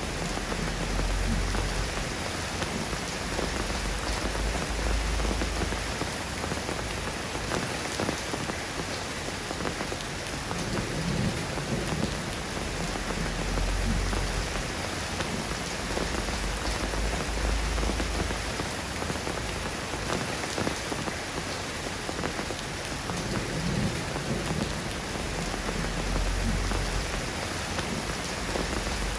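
Steady rain falling on a surface, an even hiss of many drops, with a low rumble swelling and fading every five or six seconds.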